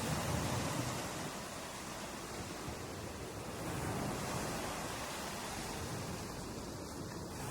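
Ocean surf washing onto a shore: a continuous rush of noise that swells slightly a little past the middle, with no distinct crash.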